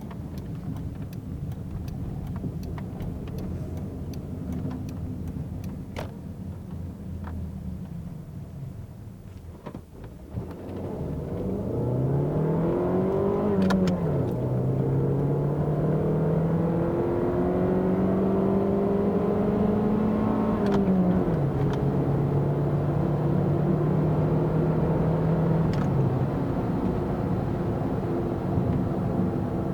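Fiat Brava 1.2 16V four-cylinder petrol engine running steadily, then, after about ten seconds, accelerating hard. The engine note climbs quickly, drops at a gear change, climbs again more slowly through the next gear and drops at a second change, then runs at a steadier note near the end.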